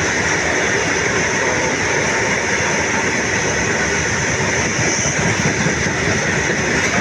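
Freight train rolling past at close range, a steady loud rumble of wheels on the rails with a clatter of passing wagons.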